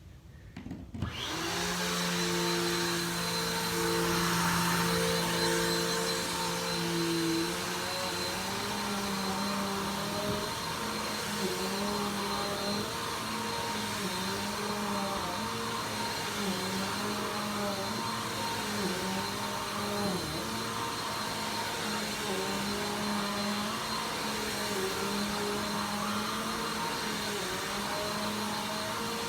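Vacuum cleaner switched on about a second in, then running steadily, its motor hum dipping briefly and recovering over and over as it works.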